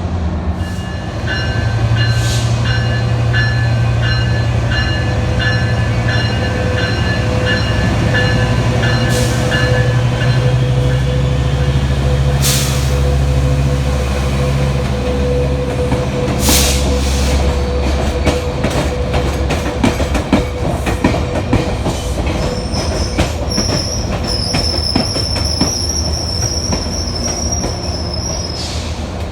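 A train moving through the station. Its bell rings at about one and a half strikes a second for the first ten seconds over a steady low engine drone. Later the wheels click over rail joints, and a high-pitched wheel squeal sets in for the last several seconds.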